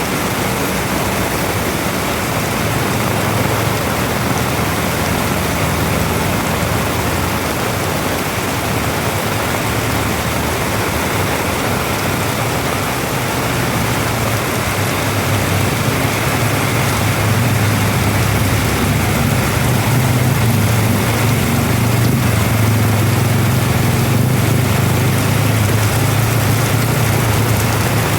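Heavy rain pouring down steadily. Under it runs a low steady hum that grows louder in the second half.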